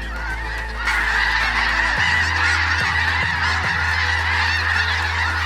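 A huge flock of snow geese calling, a dense din of many overlapping high honks that grows louder about a second in and holds steady.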